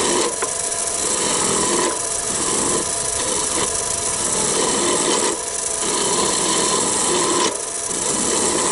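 A roughing gouge cutting a spinning piece of Irish elm on a wood lathe: a continuous rasping shave of wood, with short dips between passes of the tool, over the steady hum of the lathe.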